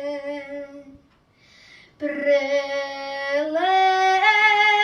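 A woman singing a traditional Serbian folk song unaccompanied, in a slow drawn-out style: a long held note fades out just before a second in, and after a short pause the voice comes back and climbs in steps to a higher held note.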